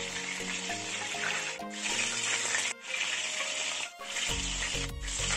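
Meatballs frying in olive oil in a pan, a steady sizzle that drops out briefly a few times, with background music playing underneath.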